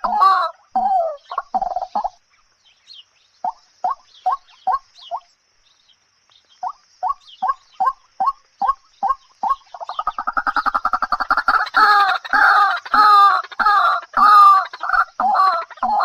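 A bird calling in quick series of short, evenly spaced notes, falling quiet for a moment a few seconds in. Past the middle it gives a harsh rapid rattle that runs into loud, repeated calls.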